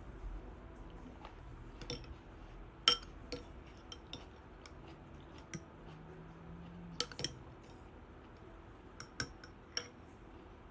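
Kitchen dishes and utensils clinking and tapping now and then. It comes as a handful of sharp, briefly ringing knocks, the loudest about three seconds in and a close pair near seven seconds, over a faint low hum.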